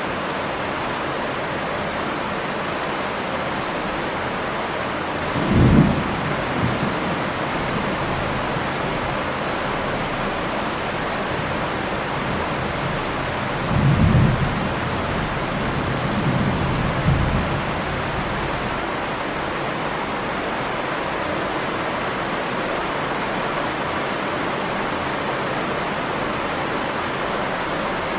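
Steady heavy rain with low rolls of thunder: one about five seconds in, and two more close together around fourteen and seventeen seconds.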